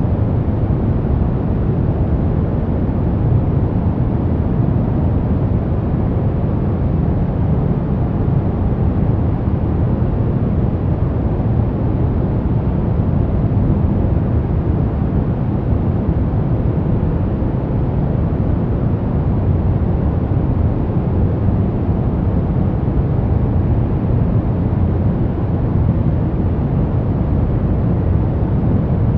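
Steady, unchanging white noise for masking and sleep, deep in tone, with most of its weight low down and little hiss on top.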